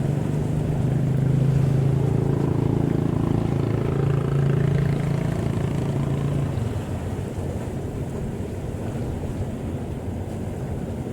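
A boat engine hums at a steady pitch and fades out about two-thirds of the way through, over wind and waves.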